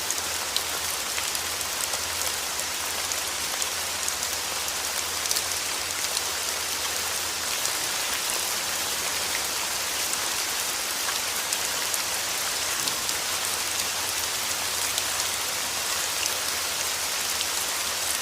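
Steady rain falling, a constant hiss with many individual drops ticking through it, over a faint low hum.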